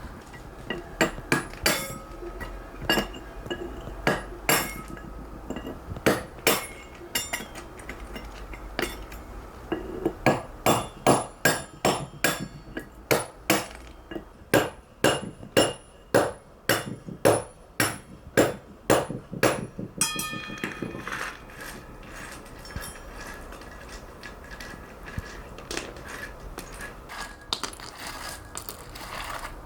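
Hammer striking a chisel on stone: sharp, ringing blows, scattered at first, then a steady run of about two a second in the middle, giving way to lighter clinks near the end.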